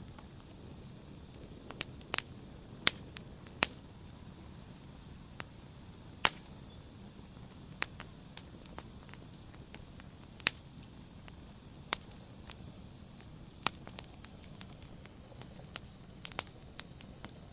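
Wood fire burning in a fireplace: a low steady hiss with sharp crackles and pops at irregular intervals.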